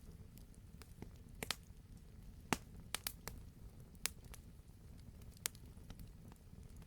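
Wood fire crackling in a fireplace: scattered, irregular sharp pops over a low steady rumble, with a few louder pops about one and a half, two and a half, four and five and a half seconds in.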